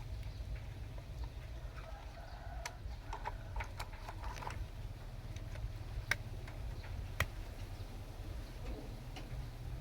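A handful of sharp clicks and small knocks, scattered irregularly over a low steady rumble.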